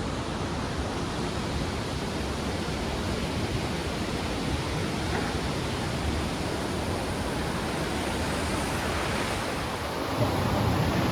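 Steady outdoor rushing noise with no rhythm or pitch. It turns louder and more rumbling near the end.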